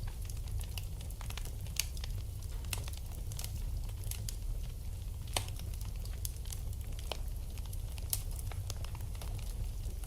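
Wood fire in a fireplace crackling: irregular sharp snaps and pops over a steady low rumble, with a few louder pops scattered through.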